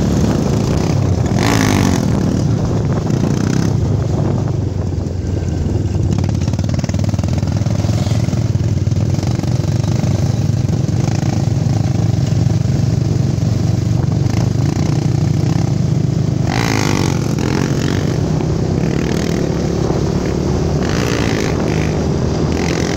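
Honda Tornado motorcycle, bored to 299cc, its single-cylinder engine running steadily under way. There are brief louder rushes of noise about a second and a half in, midway through the second half, and a couple of seconds before the end.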